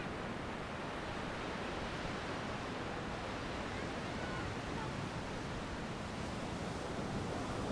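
Steady rushing wash of sea surf breaking along a sandy beach.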